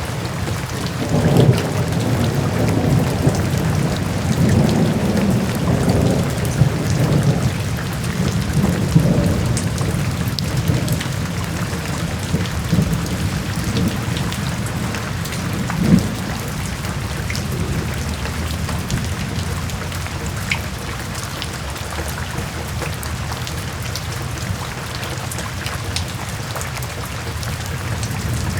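Steady rain falling, with thunder rumbling low underneath; the rumble is heaviest in the first ten seconds or so and eases off after. There is one sharp thump about sixteen seconds in.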